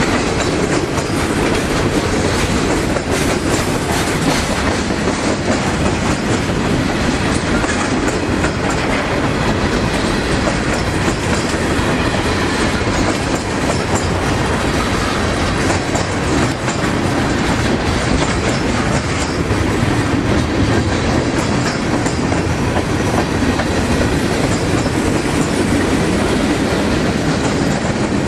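Freight train cars rolling past, a steady loud rumble with the wheels clacking over the rail joints.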